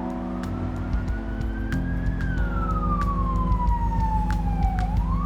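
A siren wailing, one slow rise in pitch followed by a long fall and a fresh rise near the end, over background music with held chords.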